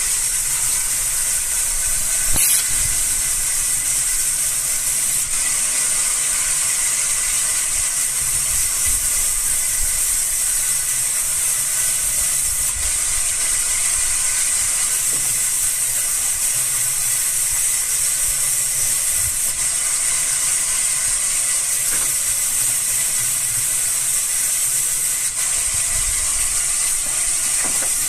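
Sawmill wood-cutting machine running steadily: a continuous high-pitched hiss over a low rumble.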